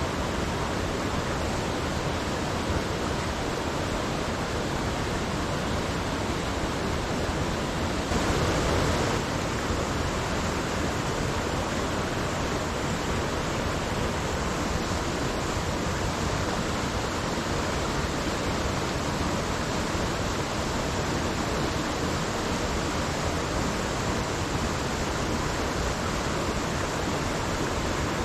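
Small creek running steadily, an even rush of flowing water. A brief louder swell comes about eight seconds in.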